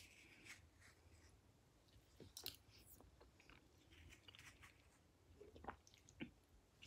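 Faint chewing and wet mouth sounds of soft red dragon fruit being eaten, with a few scattered soft clicks of a metal spoon scooping the flesh from the skin.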